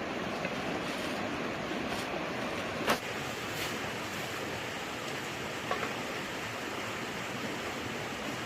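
Steady rushing noise with a few short sharp clicks; the loudest click comes about three seconds in.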